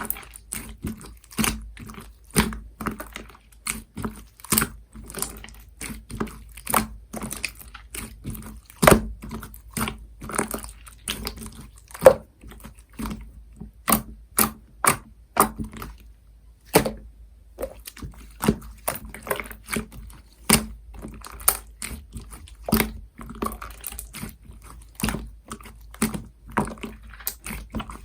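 Hands working clear slime mixed with scoop clay, making a run of short irregular clicks and pops, roughly one or two a second.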